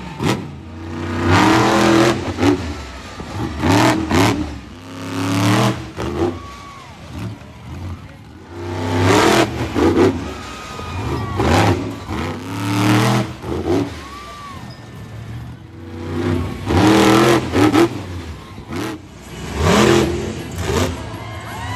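Monster truck engine revving hard in repeated bursts, the pitch climbing and dropping every one to two seconds.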